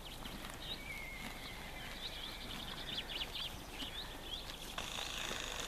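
Birds chirping outdoors: short, high calls at irregular intervals over a steady background hiss, with one longer whistled note about a second in. The hiss swells briefly near the end.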